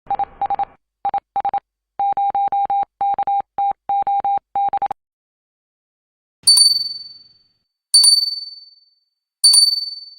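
A single beep tone keyed on and off in short and long pulses, like Morse code, for about five seconds. Then, after a pause, come three bright bell dings about a second and a half apart, each ringing out for nearly a second.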